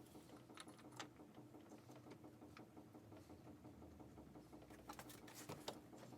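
Faint scattered clicks and light taps, a few more close together near the end, over a low steady hum that stops just before the end.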